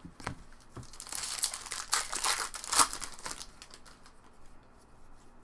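Crinkling of a trading-card pack wrapper being handled and torn open, preceded by a couple of light taps. The rustle builds about a second in and fades after roughly three seconds.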